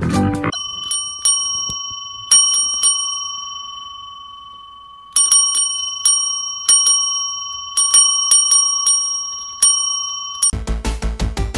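A small metal bell struck repeatedly, its clear ring carrying on between strikes. After a few quick strikes it is left to ring and fade for a couple of seconds, then it is rung many times in quick succession. It stops suddenly near the end.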